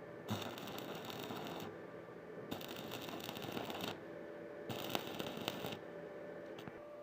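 Electric arc welding crackling in three bursts of about a second each, with short pauses between, as the arc is struck and broken three times.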